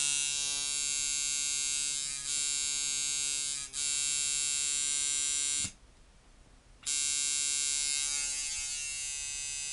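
Rebuilt Emerald Iron coil tattoo machine, set up as a liner with a long throw, buzzing steadily on about 6 volts. It cuts out for about a second near the middle, then starts up again.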